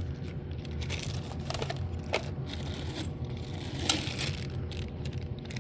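Hands rummaging through a container of small parts while searching for screws, making handling noise with scattered small clicks.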